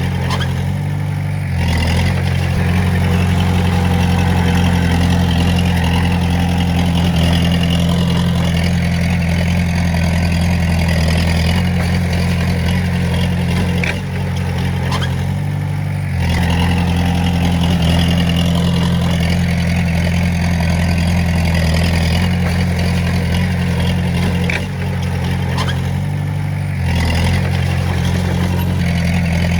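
Komatsu D20A bulldozer's diesel engine running steadily under load. Its pitch and level drop briefly three times, as the throttle eases off and comes back.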